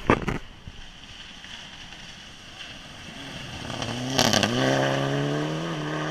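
A rally car's engine approaching at speed, growing louder from about three and a half seconds in. A sharp crack comes around four seconds in, then the engine note dips and climbs steadily as the car comes on.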